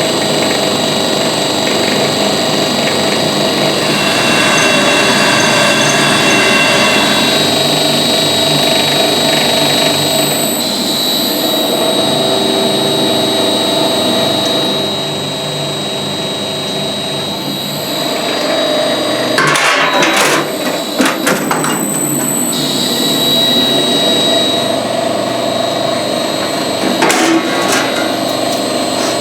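A machine's motor running steadily with a whine, joined by a few sharp knocks and clatter about two-thirds of the way through and again near the end.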